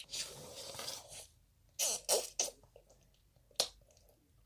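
Close-up eating sounds of sugar-glazed tangerine tanghulu: wet, crackly mouth noises in short bursts and one sharp click.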